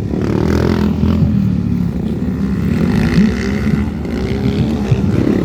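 Several motocross bikes racing on the track, their engines revving up and down with overlapping, rising and falling pitches.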